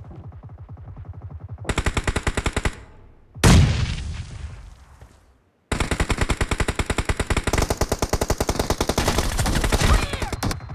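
Video-game automatic gunfire: rapid, evenly spaced shots in long bursts, about ten a second. About three and a half seconds in, a heavy blast booms and dies away over a couple of seconds. After a brief gap the fire resumes as one unbroken stream.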